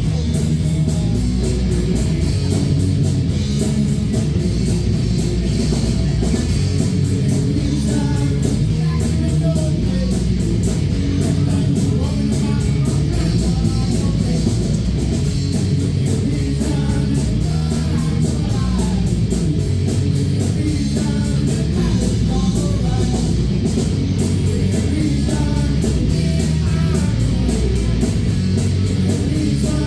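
Live rock band playing a song: electric guitar, bass and drums, with a steady cymbal beat.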